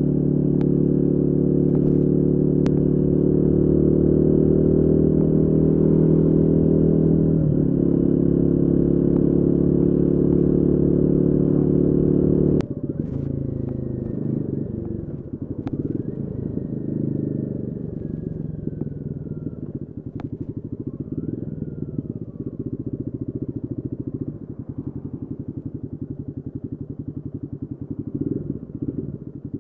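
Royal Enfield Guerrilla 450's single-cylinder engine running steadily and loudly, with a brief change in note about seven seconds in. About halfway through the sound drops suddenly to a quieter, rougher running.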